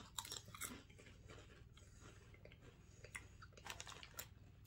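Lay's potato chips being chewed, with faint, irregular crisp crunches.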